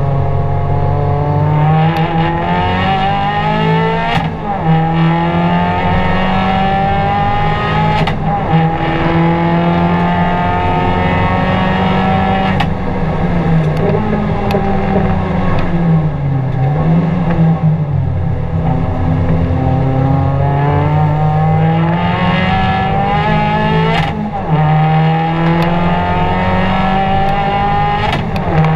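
An Abarth 500's turbocharged 1.4-litre four-cylinder, heard from inside the cabin, run hard on track. The revs climb and then drop at a sharp crack with each upshift, several times over. About halfway through the revs fall away for a corner and then build again.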